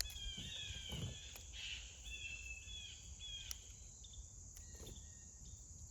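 Wild birds calling with a run of short, high whistled notes over the first few seconds, thinning out toward the end, over a steady high insect-like hum. A few light clicks.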